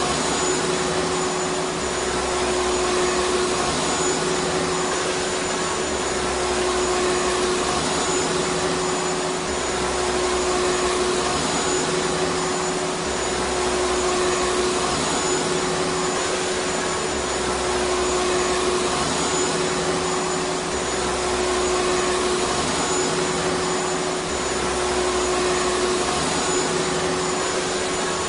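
Vacuum cleaner motor running steadily: a constant whooshing noise with a steady hum and a faint high whine, and a low rumble that comes and goes every few seconds.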